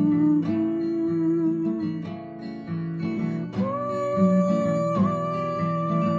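Acoustic guitar strummed in a slow, even pattern, about one stroke a second, under long held wordless notes that step up to a higher pitch about halfway through: the song's instrumental introduction.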